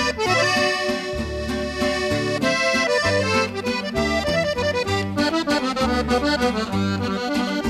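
Norteño music instrumental break between sung verses: a button accordion plays the melody over a steady bass line.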